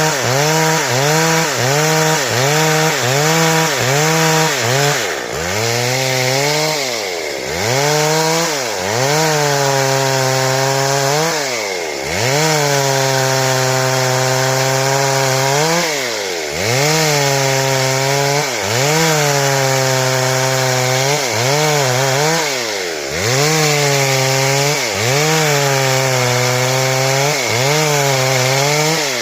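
Stihl chainsaw running hard while cutting wood into boards, its engine pitch wavering about twice a second as the chain bites. About five times the revs drop sharply and climb back up as the throttle is eased and opened again.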